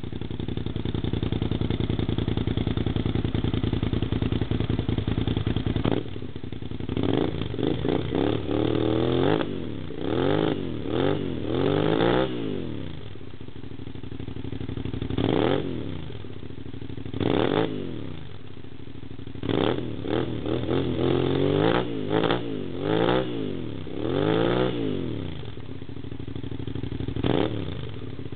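Suzuki SV650 K1's 645 cc V-twin, breathing through an MTC tri-oval slip-on exhaust with its baffle fitted, idling steadily. From about six seconds in, the throttle is blipped again and again, each rev rising and falling back to idle.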